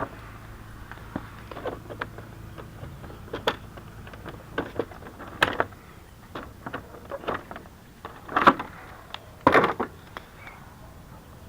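Irregular knocks and rattles, with two louder clatters near the end, over a low steady hum that fades out about halfway through.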